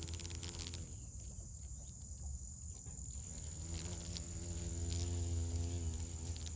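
A steady, high-pitched insect trill under a low hum. A lower droning tone fades out about a second in and returns a couple of seconds later.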